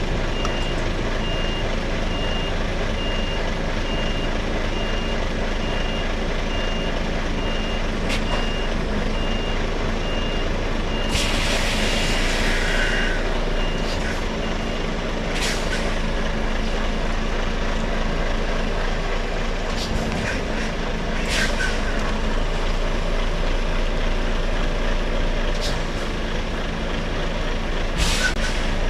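Articulated lorry reversing: the diesel engine runs low and steady under the truck's reversing alarm beeping evenly, which stops about halfway through, just after a long hiss of air from the air brakes. A few shorter air hisses follow.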